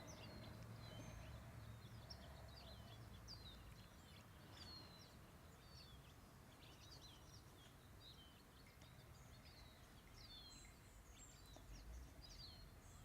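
Faint birdsong: many short, quick chirps from small birds, scattered throughout, over a low, faint background rumble.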